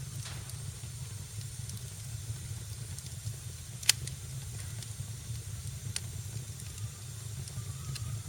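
Wood fire burning in a fireplace: a steady low rumble and hiss, broken by sharp crackling pops, the loudest about four seconds in and another about two seconds later.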